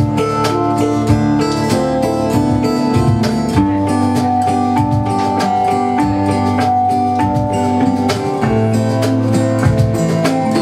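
Live band music: guitars playing chords and melody over a steady beat with drums.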